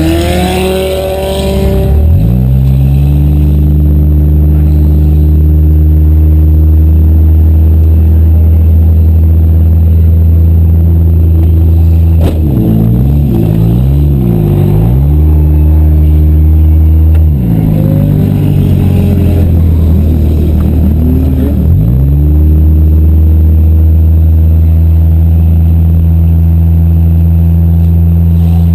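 Demolition derby car engine running loud at high revs, held steady for long stretches; the revs climb near the start, waver up and down in the middle, then drop and climb back twice.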